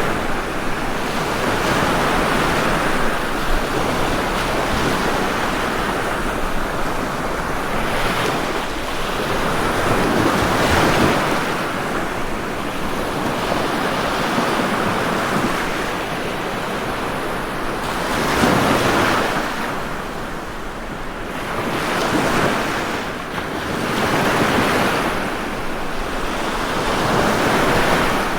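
Ocean surf: waves breaking and washing up a shore in a continuous rush that swells and eases every few seconds.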